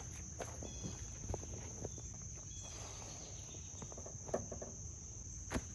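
Insects chirring in a steady high-pitched drone, with a few faint knocks about two-thirds of the way in and near the end.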